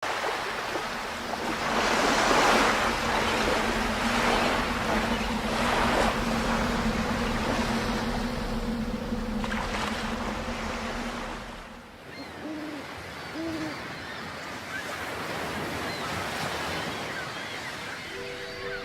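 Sea surf: waves breaking and washing in, swelling several times, with a steady low hum beneath. About twelve seconds in, it drops to a quieter seaside ambience with a few short low calls and chirps.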